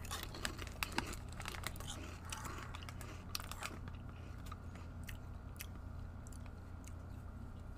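Crunching and chewing of crisp bacon-flavoured chips (tocineta) in the mouth: a run of sharp little crunches, most of them in the first half, thinning out to a few after.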